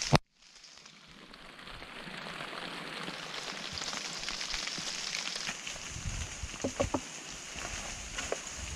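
Steady hiss of heavy rain falling on the bush, fading up after a sharp click at the start, with a few short knocks about six to seven seconds in.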